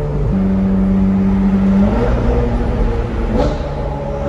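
Ferrari 488 Pista's twin-turbo V8 pulling under acceleration, heard from inside the cabin, its note stepping up in pitch twice. There is a brief sharp crack about three and a half seconds in.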